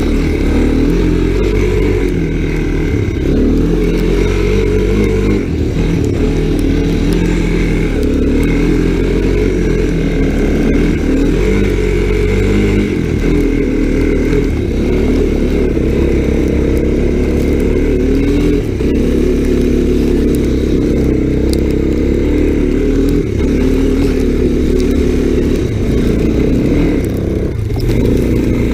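Small single-cylinder Honda off-road engine running steadily under throttle while being ridden, its pitch wavering a little with the throttle.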